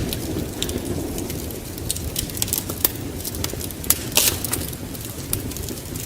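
Wood fire in a fireplace crackling and popping in irregular sharp snaps over a steady low rumble, with a louder pop about four seconds in.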